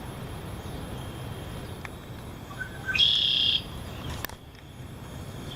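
A bird gives one loud, high call of about half a second, about three seconds in, just after a couple of faint chirps. Under it runs a low steady rumble of wind on the microphone. A single sharp click follows a second later.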